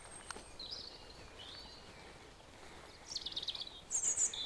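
Small birds calling: a few short high chirps, then a rapid trill about three seconds in and shrill high notes near the end, over faint outdoor background noise.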